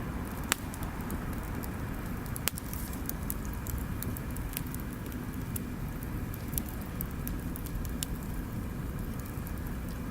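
Wood bonfire crackling, with a steady low rumble of burning and scattered sharp pops; two louder pops come about half a second and two and a half seconds in.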